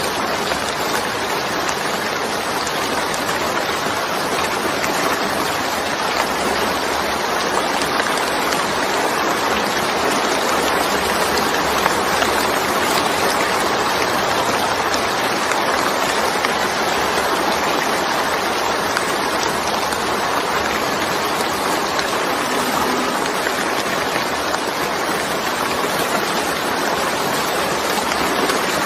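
Heavy rain and the rushing water it brings: a loud, steady, even hiss with no breaks.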